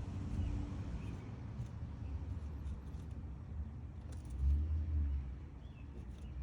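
Low steady rumble that swells briefly about four and a half seconds in, with a few faint ticks above it.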